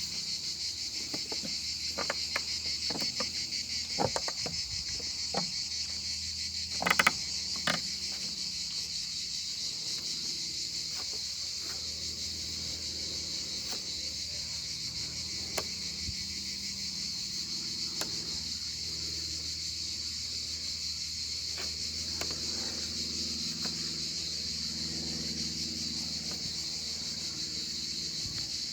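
A steady, unbroken chorus of insects trilling, crickets by the sound of the band. A few sharp clicks and knocks come in the first eight seconds, the loudest about seven seconds in.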